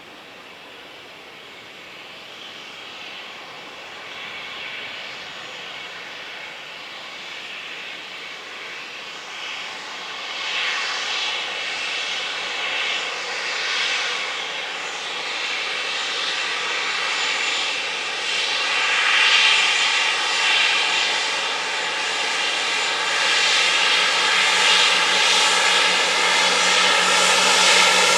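Jet airliner's engines approaching, a roar with a steady multi-tone whine that grows steadily louder across the whole stretch.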